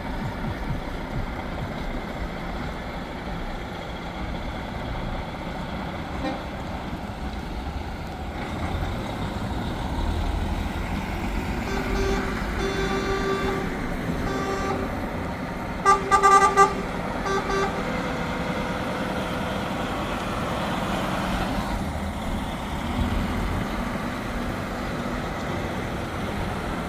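Trucks driving past with engines running, and a truck horn tooting in a series of short blasts a little before and just past the middle, the loudest being a quick cluster of three or four blasts.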